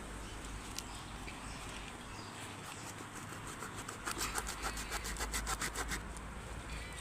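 Quick, rhythmic scraping or rubbing strokes, several a second, which build up about halfway through, are loudest for a couple of seconds, then stop.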